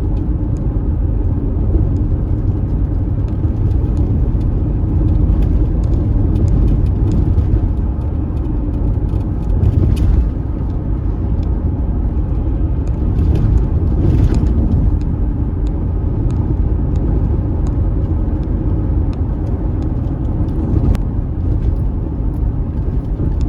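A car driving, with a steady low rumble of road and engine noise and scattered light clicks and ticks.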